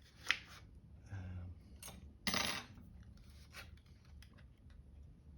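Small clicks and a short metallic clatter of hand tools and small laptop parts as ribbon cables are plugged back in, the loudest clatter a little over two seconds in.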